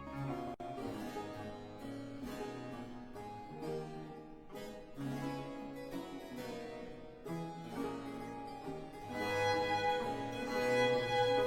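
Baroque ensemble music: a harpsichord plays continuo with bowed strings over a low bass line. It starts just after a short break and swells fuller and louder near the end.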